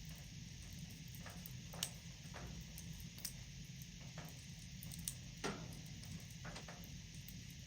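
Wood fire crackling in a fireplace: irregular sharp pops and snaps over a faint steady hiss, the sharpest pop about two seconds in.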